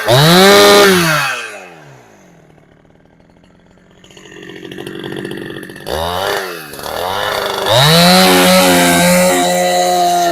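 Two-stroke engine of a Husqvarna 372XP clone chainsaw, running on a genuine carburettor. It revs up and falls away, runs quietly for a few seconds, is blipped quickly around six seconds, then is held at steady full revs from about eight seconds in.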